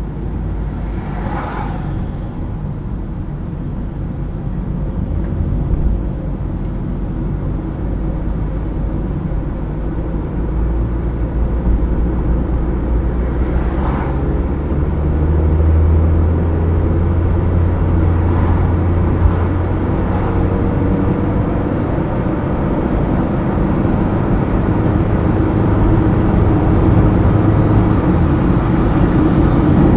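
Car driving on a highway: a steady engine hum and tyre-on-road noise. The engine note grows stronger from about halfway through, and there are a couple of brief swishes, one near the start and one in the middle.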